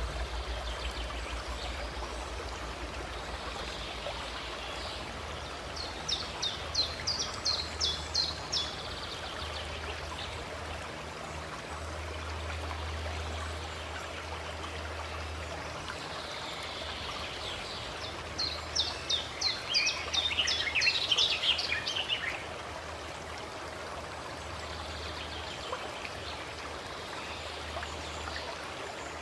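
Water running steadily, with a songbird singing twice: each time a quick series of high chirps lasting about three seconds, one about six seconds in and one about eighteen seconds in.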